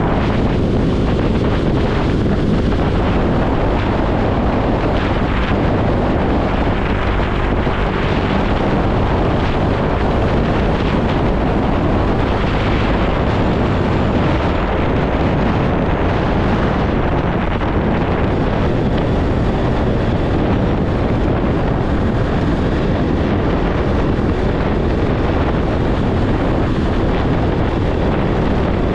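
Motorcycle running steadily while riding, mixed with constant wind rush on the microphone.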